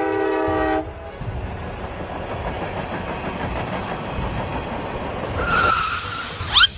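Train sound effects: a horn chord sounds briefly at the start, then a train runs on with a steady rumble. Near the end comes a hiss and a short rising glide.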